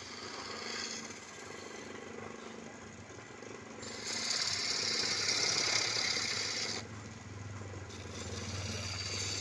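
Wood lathe running with a steady low hum while a turning tool cuts the spinning wood, giving a loud scraping hiss from about four to seven seconds in and again near the end.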